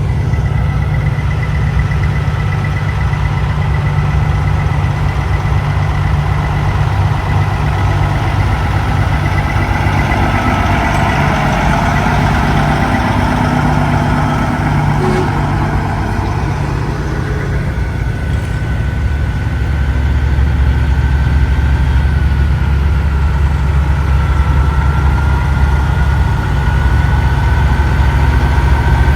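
Big-rig diesel truck engines running at low speed, a steady low rumble that grows louder about two-thirds of the way through, with a thin high whine over it.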